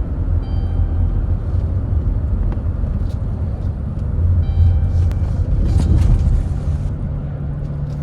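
Minivan driving, with a steady low rumble of engine and road noise.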